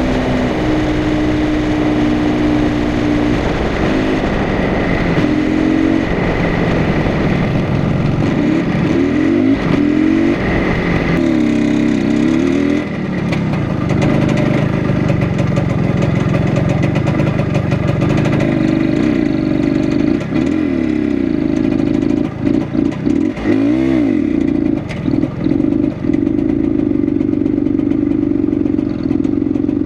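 IZh Planeta Sport 350's single-cylinder two-stroke engine pulling the motorcycle along, its revs rising and falling repeatedly as the rider works the throttle and gears.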